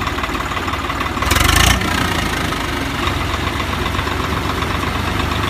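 Tractor diesel engine running steadily, with a short loud burst of hissing noise about a second and a half in.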